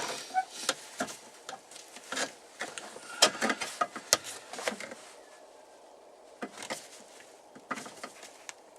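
Irregular clicks, taps and knocks of parts and trim being handled, busiest in the first half, then a few scattered clicks.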